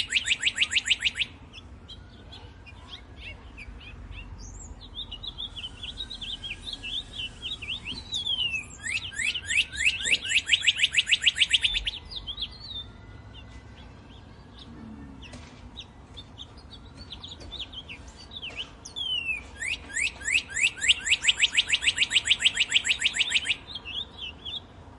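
Birdsong: a loud, fast trill of many rapid notes, lasting a few seconds and returning about every ten seconds, with scattered short chirps in between.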